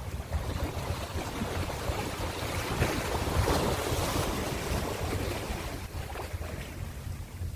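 Ocean waves breaking and washing in: the surf swells to a peak about halfway through, then eases off, over a steady low rumble.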